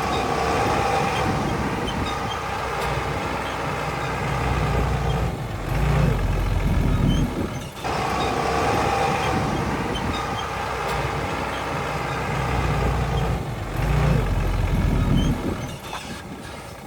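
Heavy diesel engine of earthmoving machinery running steadily. Its deep rumble swells under load twice, about six seconds in and again near fourteen seconds.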